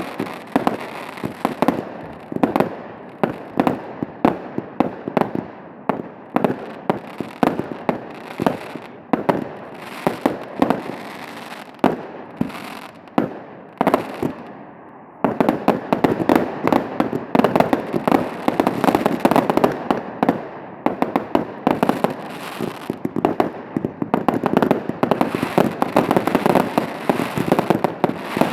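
Fireworks display: a rapid, dense series of sharp bangs and crackles from shells and cakes going off. About halfway through the firing thickens into a louder, almost unbroken barrage.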